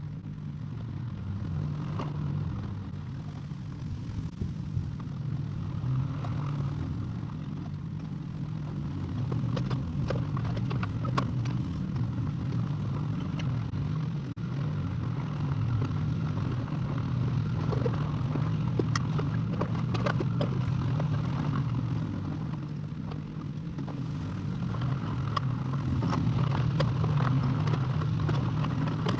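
Excavator engine running under load, its level swelling and easing, with scattered clanks and scrapes from the bucket working earth and stone.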